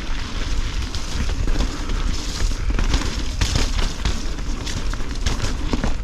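Mountain bike descending a trail at speed, heard on a rider-mounted action camera: wind rushing over the microphone, tyres rolling on dirt and roots, and the bike rattling with many sharp knocks over bumps.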